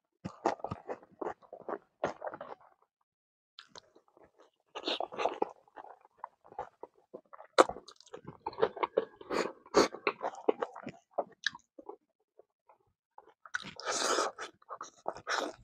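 Close-up eating by hand of rice with kidney beans and smoked pork: chewing with sharp mouth clicks, in bouts separated by short pauses, with a louder burst near the end as a handful goes into the mouth.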